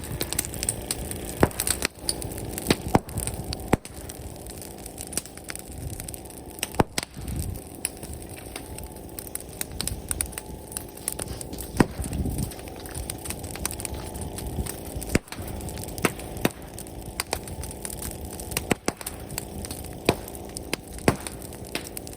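Outdoor bonfire of brushwood crackling, with frequent sharp snaps and pops at irregular intervals.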